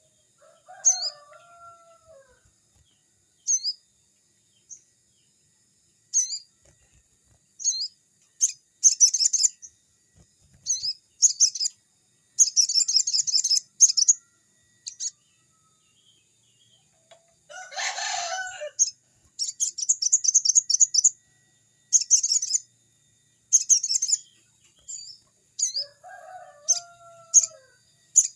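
Sogon (crested jay) calling: short high chirps and rapid rattling trills repeated on and off, with a harsher call about two-thirds of the way through. Lower falling calls come near the start and near the end, over a faint steady high-pitched whine.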